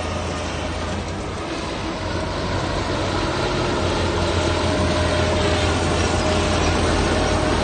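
Diesel engine of heavy earthmoving machinery running steadily under load, with a low hum and a faint steady whine, getting a little louder about three seconds in.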